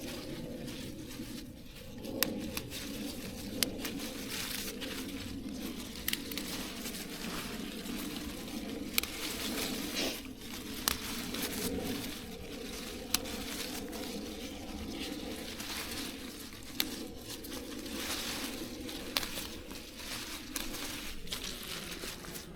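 Close rustling and crinkling with scattered sharp clicks, over a steady low hum.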